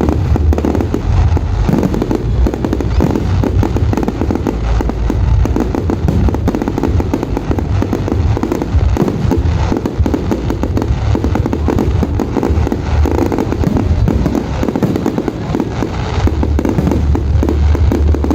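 Fireworks display: a dense, unbroken barrage of bangs and deep booms, one burst after another with no pause.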